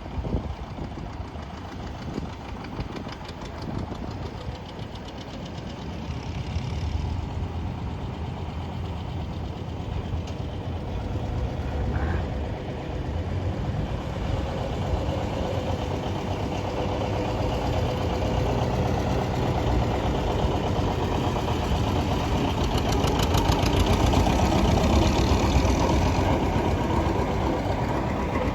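Vintage tractor engines running steadily, growing louder in the second half and loudest near the end.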